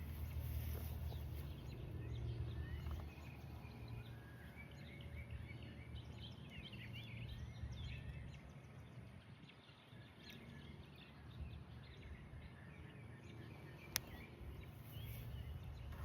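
Birds chirping outdoors: many short rising and falling calls over a low steady rumble, with a single sharp click about fourteen seconds in.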